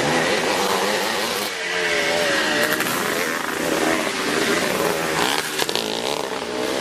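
Classic twinshock motocross motorcycles racing, their engines revving with pitch rising and falling as they are worked through the gears.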